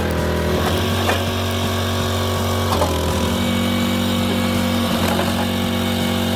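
Wood splitter's engine running steadily, with a few short knocks and a step up in pitch about halfway through.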